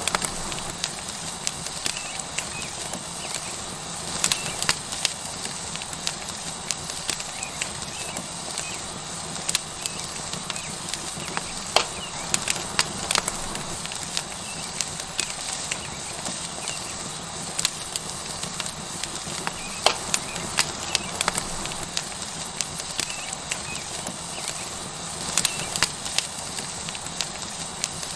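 Wood fire crackling with sharp, irregular pops over a steady hiss of a tomahawk steak sizzling on a hot rock.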